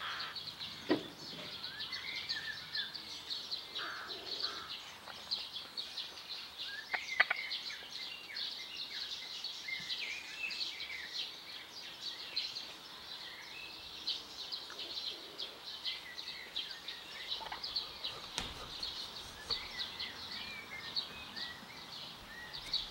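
Small birds chirping continuously, many quick high chirps overlapping, with a single sharp tap about seven seconds in.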